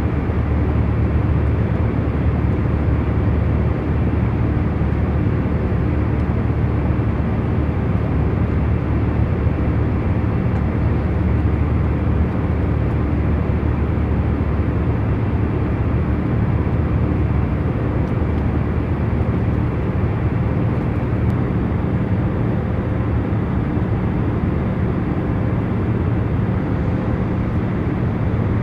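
Airliner cabin in cruise: a steady, deep drone of engine and air noise, with a faint steady hum of tones above it.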